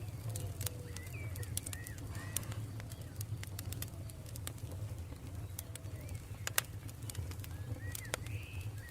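Campfire crackling, with frequent irregular sharp pops over a steady low rumble of the burning wood. Birds call in the background with short hooked chirps and soft low gliding notes.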